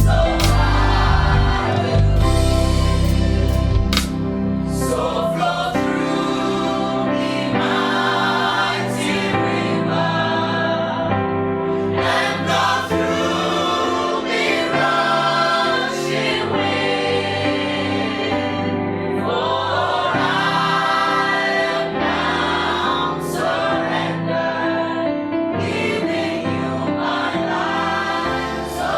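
A group of voices singing a worship song together over sustained accompanying chords.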